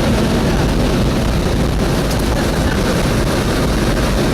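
Automatic car wash air-dryer blowers running, a loud steady rush of air blowing in through the van's open doors.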